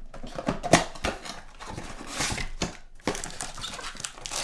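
Trading cards and pack wrappers being handled: a quick run of taps, slides and crinkles as cards are flipped and stacked.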